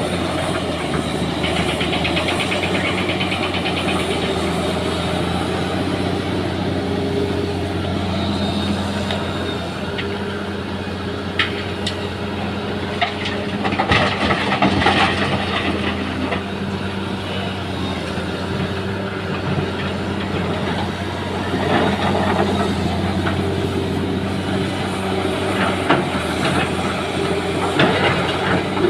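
Heavy engine running steadily while stones are loaded into a truck, with bursts of clattering knocks as rocks drop into the bed about halfway through and again near the end.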